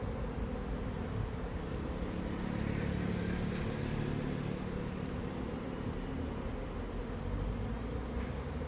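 Honey bees buzzing steadily around an open hive, a low hum over a faint rumble.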